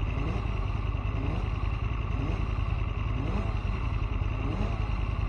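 Aprilia Tuono motorcycle engine running hard, its pitch climbing repeatedly about once a second as it revs, over a constant heavy low rumble.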